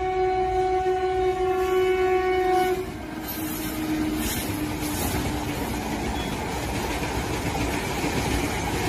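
A train horn holds one steady note and cuts off about three seconds in, leaving the steady rumble of a passing train.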